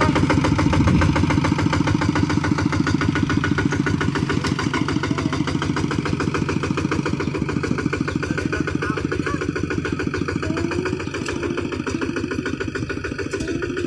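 Kubota hand tractor's single-cylinder diesel engine running steadily, its firing beats close and even, easing slightly in level about eleven seconds in.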